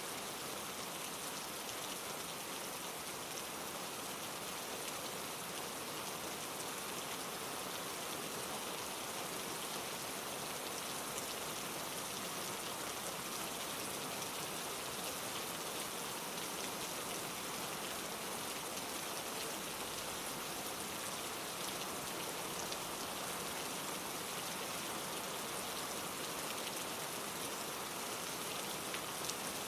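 Steady rain falling, an even hiss with fine scattered drop ticks through it.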